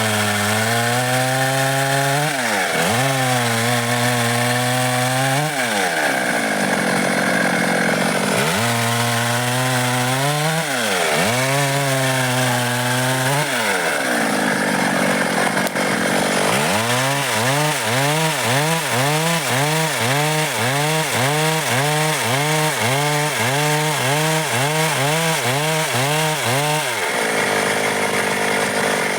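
Stihl MS 382 two-stroke chainsaw working through dry wood, its engine speed rising and falling over and over. It is held at full throttle for a couple of seconds twice, then over the last ten seconds it rises and falls quickly, about one and a half times a second.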